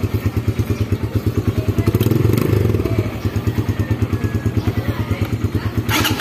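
Motorcycle engine idling with a fast, even pulse of about eight or nine beats a second. It swells briefly about two seconds in, and there is a short burst of clicking near the end.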